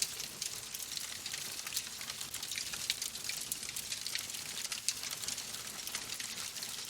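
Wood fire in a fireplace crackling, with a steady hiss and frequent small sharp pops.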